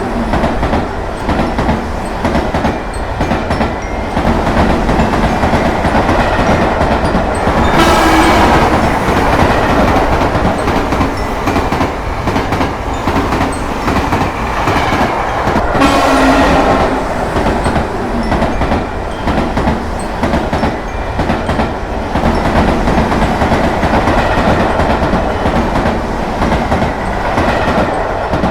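A train running past with a steady clatter of wheels over rail joints, its horn sounding twice, about eight and sixteen seconds in.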